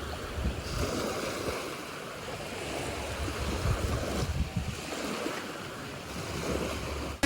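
Sea surf washing ashore, with wind buffeting the microphone in irregular gusts.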